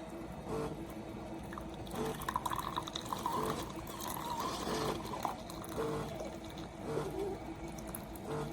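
Coffee from a SiFENE single-serve pod brewer sputtering and trickling into the mug in uneven spurts as the brew cycle runs out.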